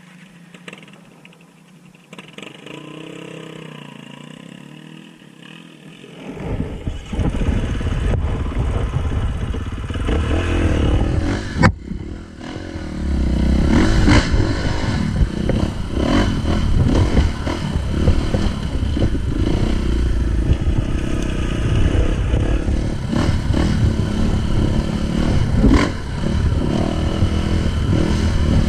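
Dirt bike being ridden on a trail. Quieter for about the first six seconds, then the engine runs loud and steady with a dense low rumble, with a brief dropout about twelve seconds in.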